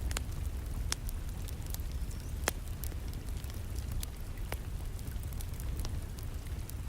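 Wood fire crackling in a fireplace: sharp, scattered pops about once a second over a steady low rumble and the constant hiss of rain.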